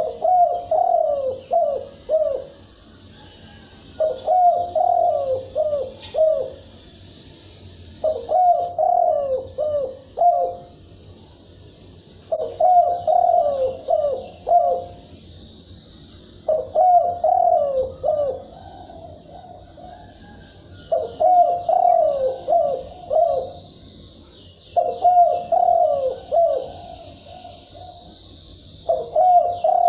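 Spotted dove cooing its territorial song: a phrase of several low coos, about two seconds long, repeated about every four seconds. Faint high chirping runs behind it.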